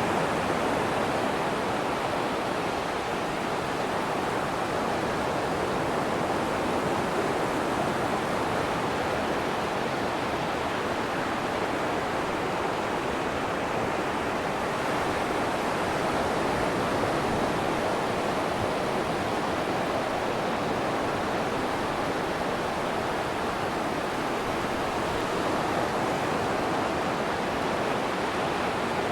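Atlantic Ocean surf breaking on a sandy beach: a steady, even wash of waves, with no single crash standing out.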